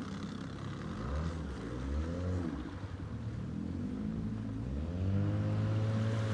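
Small outboard motor on a jon boat running and being revved: the engine speed rises and falls about a second in, then climbs again and holds high near the end.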